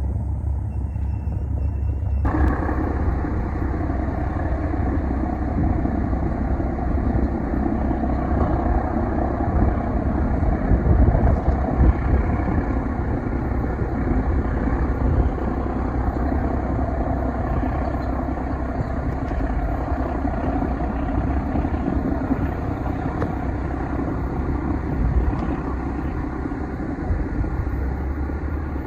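Steady low engine rumble, with a fuller mid-range noise that comes in suddenly about two seconds in.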